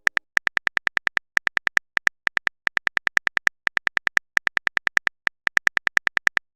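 Simulated phone-keyboard typing clicks, a sound effect of a message being typed out: quick runs of identical taps, about eight to ten a second, broken by short pauses.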